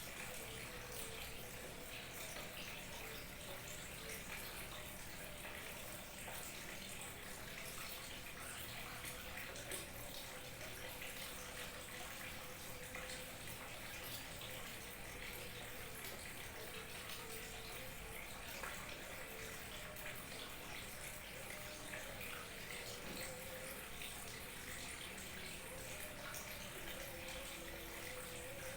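Small waterfall trickling and splashing steadily, with short bubbling gurgles throughout.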